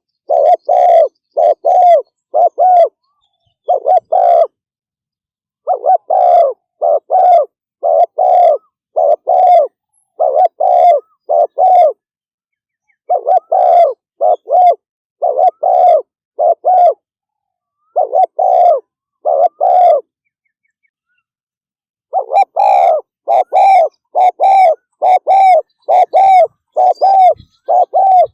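Spotted dove giving the fast, excited cooing run ("thúc gù"): loud short coo notes in quick succession, broken by a few pauses of a second or two.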